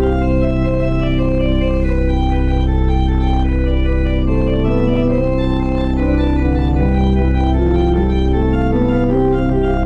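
Organ playing a postlude: sustained chords over a deep held bass note, with the upper voices moving from note to note.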